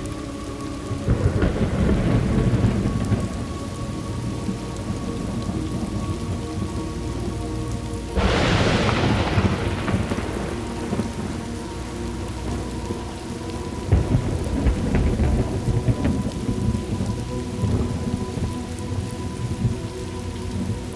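Thunderstorm: steady rain falling, with a roll of thunder about a second in, a sharp thunderclap about eight seconds in that rumbles away, and more rumbles of thunder in the latter half.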